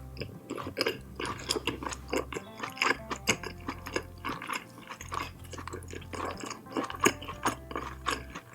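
Close-miked chewing and wet mouth clicks of someone eating a meal of Indian food, with quiet background music underneath.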